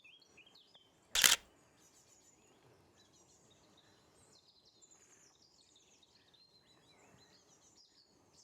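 Long-tailed tits calling: thin, high chirps in quick runs of short notes. About a second in comes a brief, loud burst of clicks, much louder than the birds.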